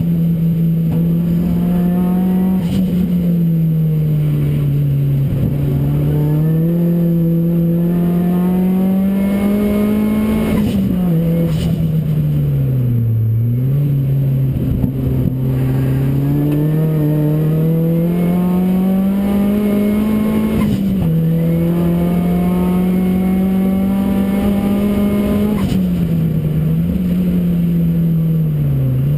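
Modified Ford Focus RS engine in a Ford Racing Puma running hard on track. Its note climbs steadily under load and drops sharply several times at gear changes or lifts.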